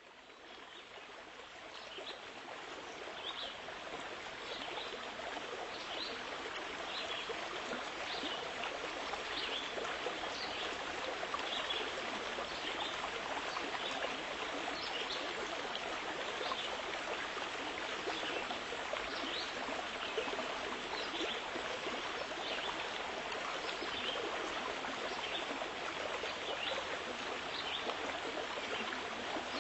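Water of a stream flowing steadily, fading in over the first few seconds, with short high chirps about once a second.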